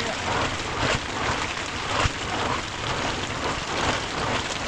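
Steady storm noise of rain or driven snow striking a surface, with a couple of sharper knocks about one and two seconds in.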